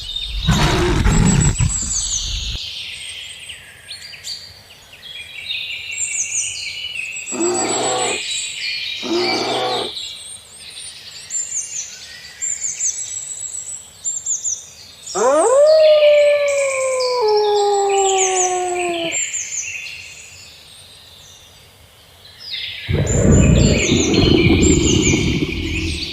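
Recorded wild-animal calls over constant birdsong: a loud deep roar at the start, two short growls about eight and nine seconds in, a long call with a clear pitch that slides downward for about four seconds mid-way, and another deep roar near the end.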